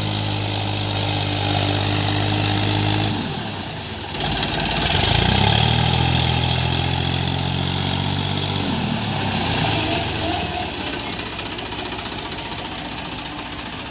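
New Holland 3037 tractor's diesel engine working as it tries to climb through dry sand. Its note sags about three seconds in, climbs back about two seconds later, falls away again near nine seconds, and then fades.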